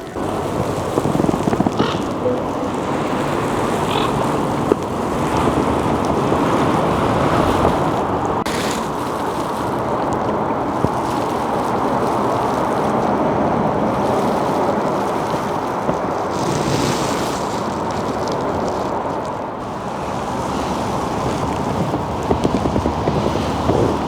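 Steady rush of water and wind noise around a kayak moving on a river, with a few brief sharper sounds standing out from it.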